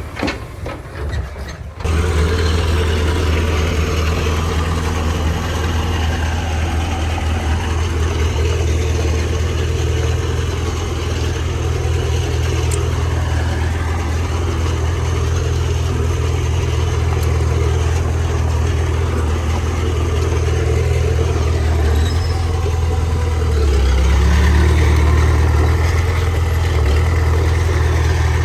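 Heavy diesel engine of earthmoving machinery running steadily. It cuts in abruptly about two seconds in and works harder for a few seconds near the end.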